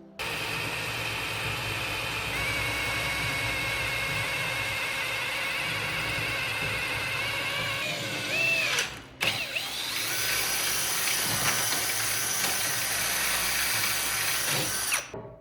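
Power tool running steadily on steel with a high motor whine that sags and recovers under load. It stops briefly about nine seconds in, then runs again.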